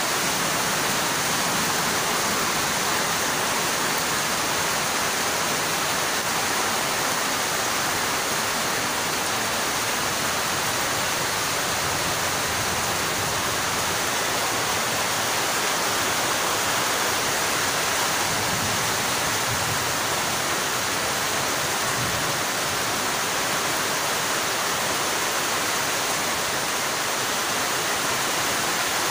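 Heavy rain falling, a steady, even rushing noise that doesn't change.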